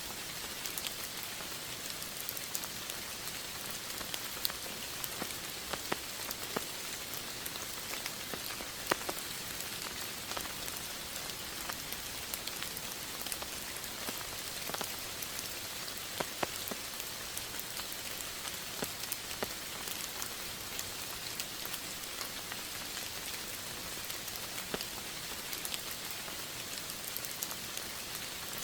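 Steady rain falling: an even hiss with many scattered sharper ticks of individual drops.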